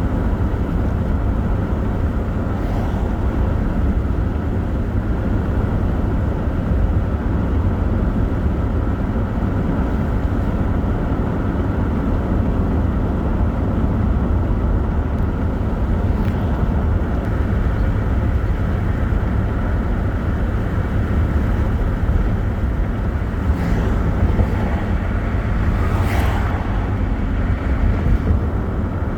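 A vehicle driving along a road, with a steady low rumble and road noise and a few brief hissing swells near the end.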